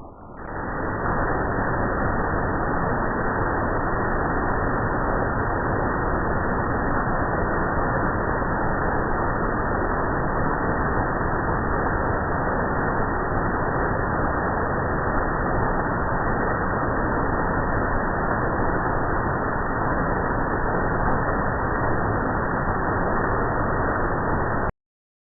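Waterfall rushing as a steady noise, played slowed down so that it sounds low and muffled; it cuts off suddenly near the end.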